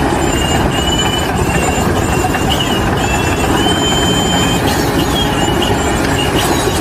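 Loud, steady rumble of heavy machinery with a high squeal over it that wavers and breaks off and starts again several times.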